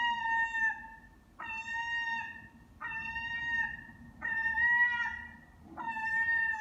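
A gull giving a series of five steady, nasal "ah" calls, about one every second and a half, each lasting under a second and dropping slightly in pitch at the end. These are the calls the gull makes while being hand-fed.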